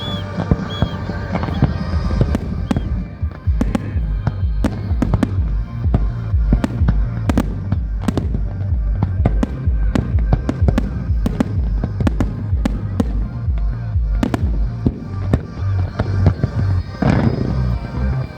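Fireworks going off in rapid succession, a steady stream of sharp bangs and crackles, over music with a pulsing bass beat.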